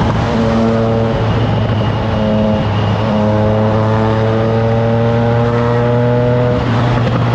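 Triumph Trident 660's 660 cc inline three-cylinder engine through a FireTong aftermarket exhaust, running under way at steady revs that climb slightly, with a brief dip near the end. Wind noise runs under it.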